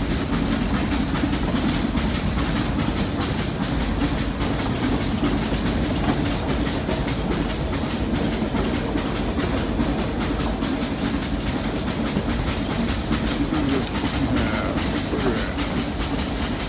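Nilgiri Mountain Railway steam train climbing, heard from a coach window: the steady running noise of the coaches on the rails, with a continuous rattle.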